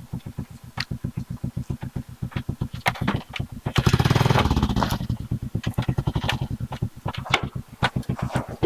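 Motorcycle engine running at low revs with an even, rapid putt-putt, briefly revved up about four seconds in.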